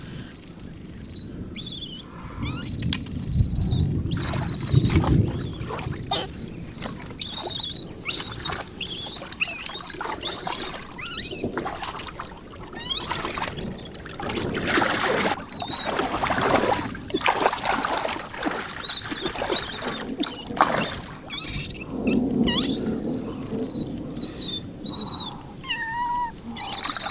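Bird calls: many short, high chirps that rise and fall in pitch, repeating throughout, with scattered knocks and rustling.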